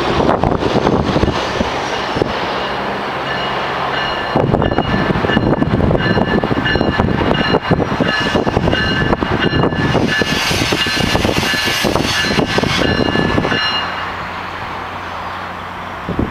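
A diesel-hauled passenger train rolls past close by, its wheels clattering over the rails, with a steady high-pitched squeal through the middle. About 13 seconds in it quietens to the low steady hum of the idling diesel locomotive.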